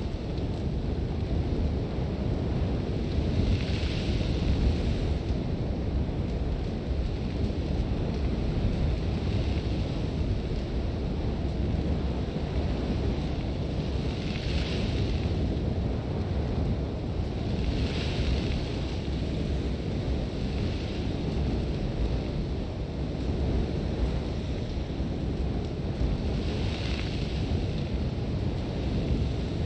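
Strong sandstorm wind blowing steadily with a deep rumble, and a few gusts that swell into a harsh hiss of blowing sand.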